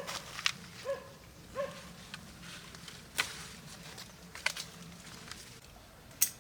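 Three short animal calls in the first two seconds, among scattered sharp clicks and knocks; the sharpest knock comes near the end.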